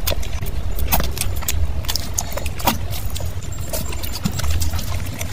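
Close-miked wet chewing and lip smacking as handfuls of saucy fried rice and chicken are eaten, a quick uneven run of sharp mouth clicks and smacks over a steady low rumble.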